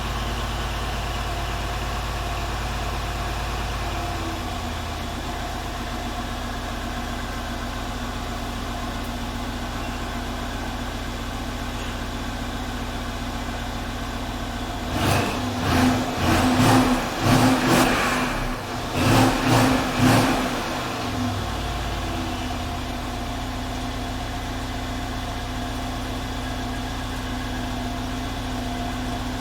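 Mercedes-Benz E500 (W212) 4.7-litre twin-turbo M278 V8 on its stock exhaust, idling after a cold start; the idle drops a little about four seconds in. About halfway through it is given a quick series of revs for several seconds, then settles back to a steady idle.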